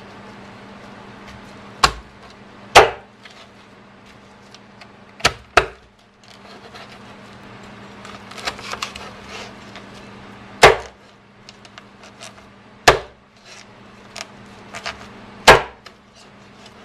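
Meat cleaver chopping a raw chicken through the bone on a cutting board: seven heavy blows at irregular intervals, two of them in quick succession, with lighter knocks and taps between.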